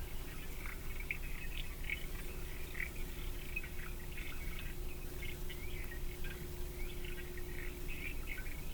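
Small forest birds calling in many short, high chirps, with a faint steady hum and low background rumble underneath.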